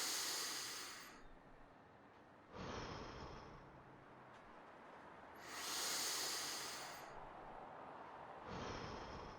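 A person breathing slowly and deeply: two full breaths, each a louder, airy intake followed by a softer out-breath, about six seconds apart.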